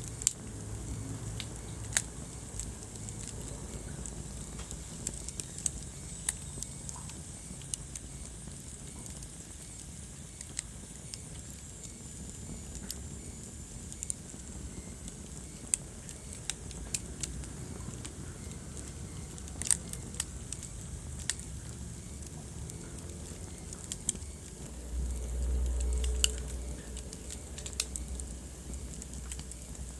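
Wood fire burning in a fireplace: irregular sharp crackles and pops over a steady low rumble of the flames. Near the end the low rumble swells louder for a couple of seconds.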